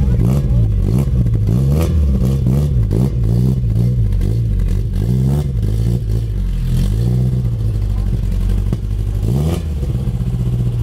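Fiat 131 Abarth rally car's engine revved through a custom 2.5-inch stainless steel exhaust with a twin-tailpipe centre box, the pitch rising and falling in repeated blips, then holding steadier. Near the end the revs rise again as the car pulls away.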